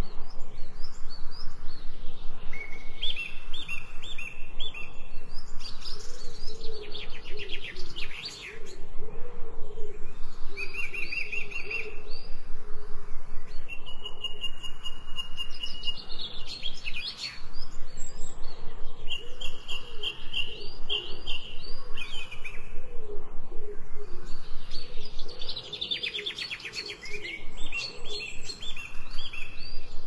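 Songbirds singing: clear whistled notes, each held about a second, stepping between a few pitches. Every ten seconds or so comes a fast rattling trill, over a lower wavering call.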